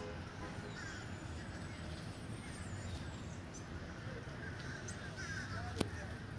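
Birds calling and chirping over a steady low outdoor rumble, with one sharp click near the end.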